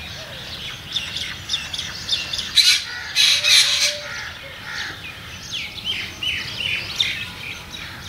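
Birds chirping and calling in quick, short notes, with a few louder, harsher squawks about three seconds in.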